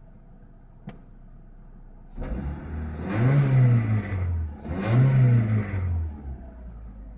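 Mitsubishi 4G93 GDI 1.8-litre inline-four engine idling, then revved twice: each blip rises and falls in pitch before it settles back to idle. A single sharp click about a second in.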